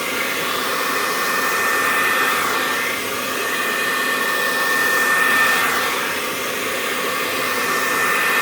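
Remington hair dryer running steadily, blowing acrylic paint across a canvas in a paint-pour blowout. A rush of air with a high, wavering whine that swells and eases as the dryer is moved.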